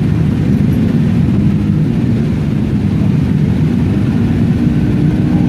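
Motorcycle engines running close by: a loud, steady low rumble.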